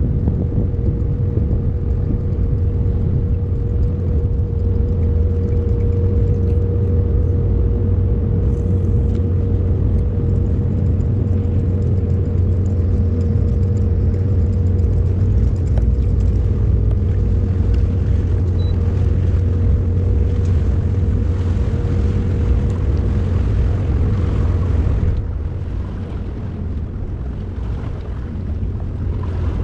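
Outboard motor on a Gheenoe running steadily underway: a loud low rumble with a steady hum over it, getting quieter about 25 seconds in.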